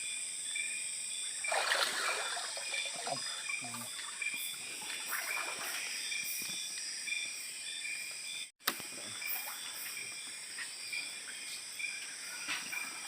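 Tropical forest insects buzzing in steady high tones, with evenly repeated chirps, and a brief rush of rustling or water about two seconds in. The sound drops out for a moment a little past halfway.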